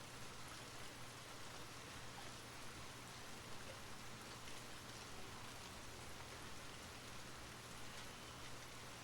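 Steady rain falling, a soft even hiss with scattered droplet ticks.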